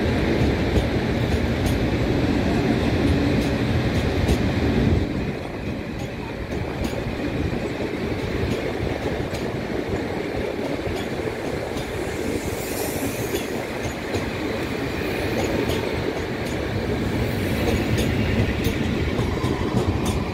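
Passenger coaches of an Indian Railways express train rolling past: a steady rumble of steel wheels on rail, with repeated clicks as the wheels cross the rail joints. The rumble drops a little about five seconds in.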